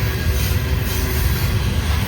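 Freight train rolling past at close range: a steady rumble of wheels and cars on the rails.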